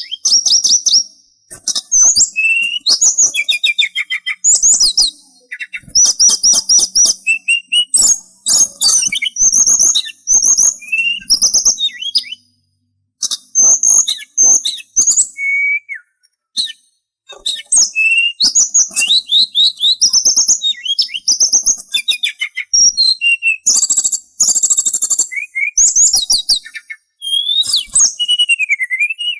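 A sulingan songbird singing: fast chattering twitters and trills mixed with clear whistled notes that glide up and down, in phrases of a second or two with brief pauses between, including a longer gap around halfway through.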